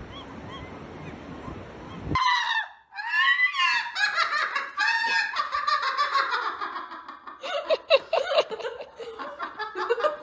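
Geese honking: loud, repeated honks with bending pitch, starting abruptly about two seconds in after a stretch of steady wind-like noise with faint chirps.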